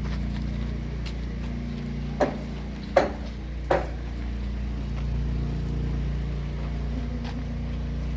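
A steady low machine hum, with three sharp knocks a little over two seconds in, each about three quarters of a second after the one before and the middle one the loudest, like hammer blows on a building site.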